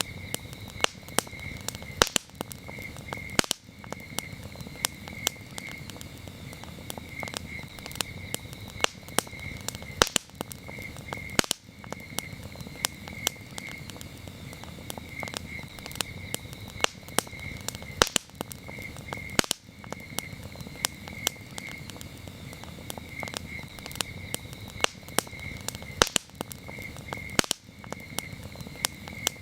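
Wood campfire crackling, with frequent sharp pops at irregular intervals over a steady low rush of flame. Crickets chirp in a steady pulsing rhythm throughout.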